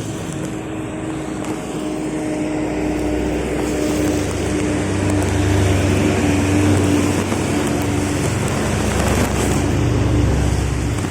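A motor vehicle running steadily, with a low hum that grows louder about four seconds in.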